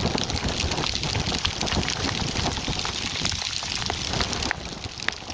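Hail and heavy rain pelting down: a dense hiss studded with many sharp ticks of hailstones striking, easing slightly near the end.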